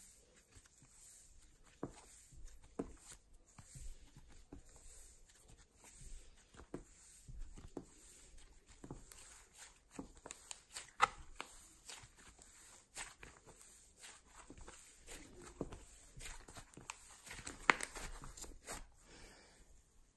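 Slime being squished, stretched and pressed by hand, giving irregular soft clicks, crackles and little pops, with two louder pops, one about halfway through and one near the end.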